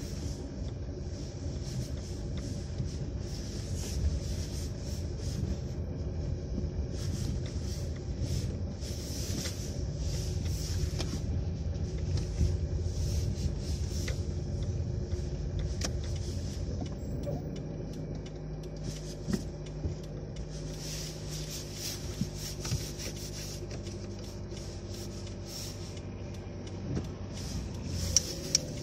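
Car engine running at low speed, heard from inside the cabin as a steady low hum, somewhat quieter for the last ten seconds or so, with scattered light ticks over it.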